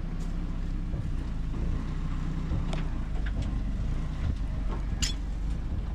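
Heavy diesel machinery engine running steadily at low revs, a continuous low rumble, with a faint tick or two.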